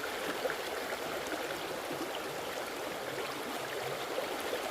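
A stream running steadily: a continuous babble of flowing water.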